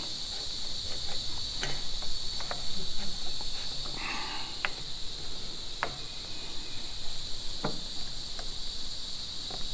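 Steady high-pitched insect chorus, with a few scattered light clicks and taps from hands working a rubber fuel line onto a fuel filter.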